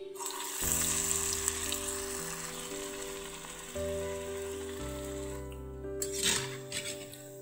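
Urad dal vada batter frying in hot oil in an iron kadai, sizzling steadily from just after the batter drops in. About six seconds in, a brief louder surge of sizzle comes as a slotted spatula goes into the oil.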